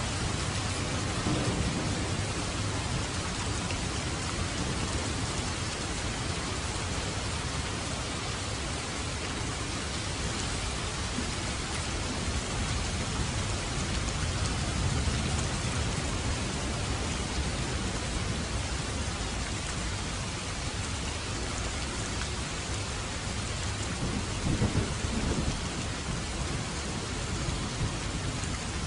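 Steady rain falling in a dense, even hiss, with low rumbles swelling a few times, the strongest near the end.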